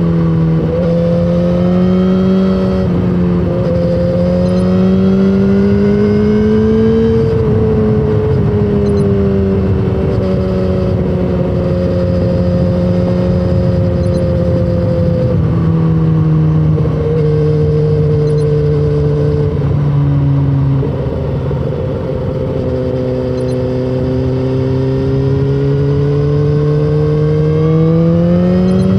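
BMW S1000RR's inline-four engine and exhaust under way, its pitch rising and falling with the throttle. The pitch drops and the sound briefly eases about twenty seconds in, then climbs again near the end.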